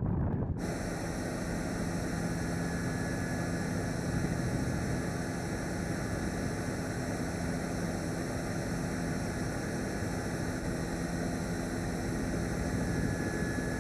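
Steady noise of aircraft engines running, with a low hum underneath, cutting in suddenly about half a second in.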